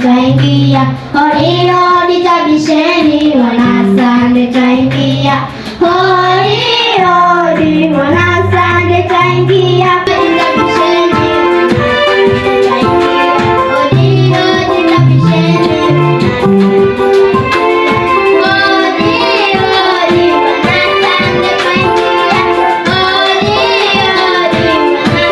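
A group of children singing a church song with musical accompaniment.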